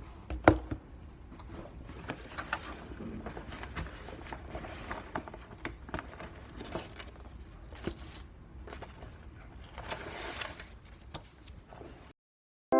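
Scattered small clicks and taps of objects being handled at close range, with one sharp click about half a second in.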